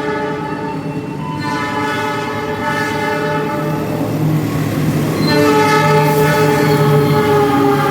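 Train horn sounding in three long multi-tone blasts, the last the loudest, over the rumble of the train passing through without stopping.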